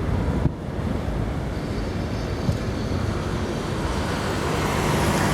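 Boeing 767-300ER's jet engines rumbling steadily on its landing run, with a faint high whine and a low hum that grows louder near the end. Wind buffets the microphone throughout.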